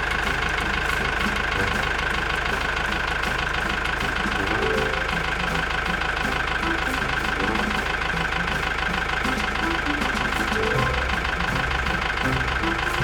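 Small engine of a miniature DIY tractor running steadily with a fast, even putter, having just started.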